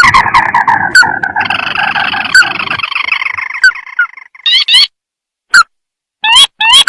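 Crake (tikusan sawah) calls played as a bird-lure recording. A long trill falls in pitch and fades after about four seconds, followed by a few short bursts of rising notes with silent gaps between them.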